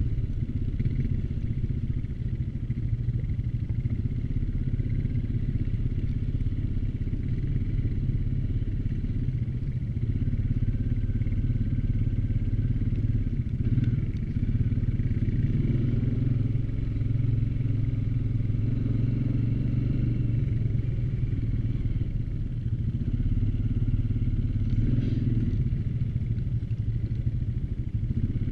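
ATV engine running steadily while riding, with small rises and dips in engine speed.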